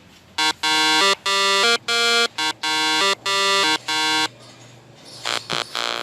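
A buzzy electronic melody played as a string of short beeped notes, like a battery toy's sound chip. It pauses for about a second, then starts a quicker run near the end.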